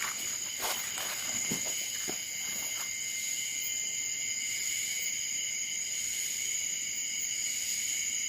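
Cicadas (tonggeret) shrilling in a steady, unbroken high-pitched chorus. A few soft steps or knocks come in the first few seconds.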